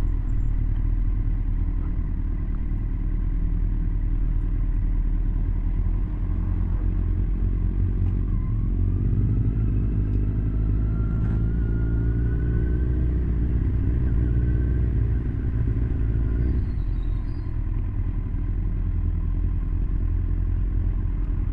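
Motorcycle engine running under way, heard from the rider's position with road and wind noise. The engine note climbs for several seconds and then drops off abruptly about sixteen seconds in, as the throttle is closed.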